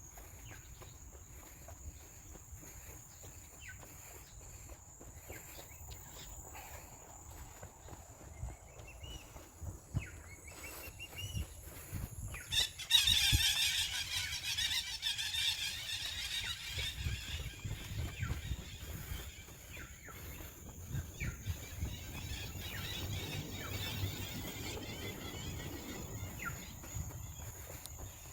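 Footsteps on a forest trail under a steady high insect whine, with a few short rising chirps. About halfway through, a loud insect buzz starts suddenly and slowly fades away over some ten seconds.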